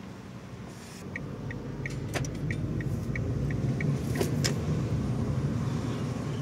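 Haval M6 heard from inside the cabin while driving: low road and engine rumble building as the car gets moving, with a run of short, even ticks about three a second for a few seconds and a few sharp clicks or knocks. The door seals have just been treated with silicone to cure a door creak, which the driver finds much reduced.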